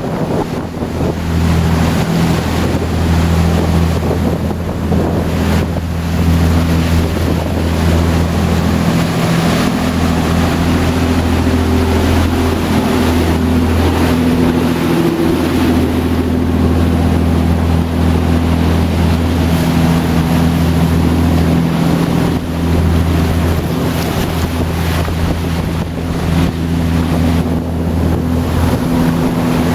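Mariner Searanger 36 cruiser's engine droning steadily under way, with wind buffeting the microphone and water rushing past the hull.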